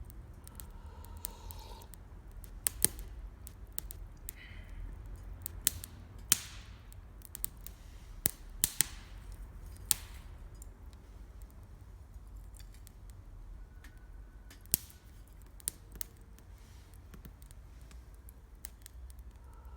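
Wood campfire crackling: sharp, irregular pops and snaps over a low, steady rumble.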